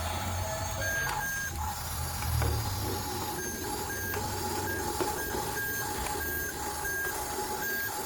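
Electronic beeping from a toy vehicle's sound unit, a short high beep repeating about twice a second like a reversing alarm, over a steady lower tone.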